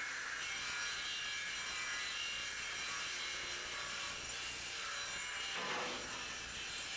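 Robotic degating cell's cutting tool cutting the gates off a V8 engine block casting: a steady rasping cutting noise whose pitch briefly dips down and rises again about five and a half seconds in.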